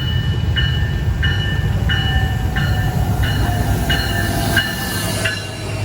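Metrolink train led by an F125 locomotive pulling into the station, its deep rumble under a warning bell ringing at an even pace, about three strikes every two seconds. In the second half a faint higher squeal rises, as the brakes or wheels begin to squeal.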